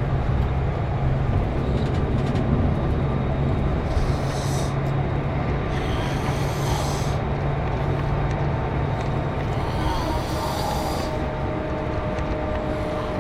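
Scania K410 coach's diesel engine running steadily under road noise as the bus travels. There are three short hisses, about four, six and ten seconds in.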